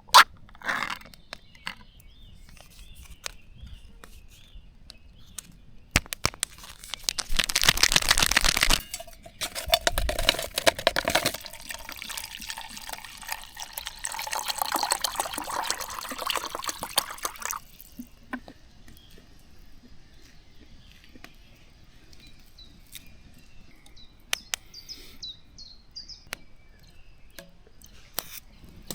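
Camp cooking sounds: scattered clinks and knocks of cookware, and water being poured. The pouring is loudest for a few seconds near the middle and runs on more quietly. Near the end, with the clatter quieter, a bird chirps a few times.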